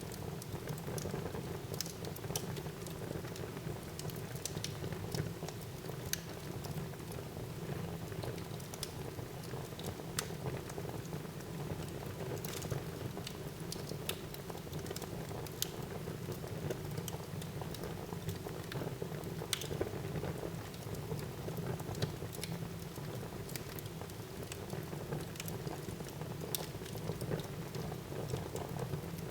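Fire burning in a fireplace: a steady low rush of flame with sharp crackles and pops scattered at irregular intervals.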